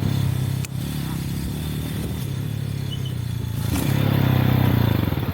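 Lifan Xpect motorcycle engine running while riding, with a sharp click a little under a second in; the engine gets louder about four seconds in as it is throttled up.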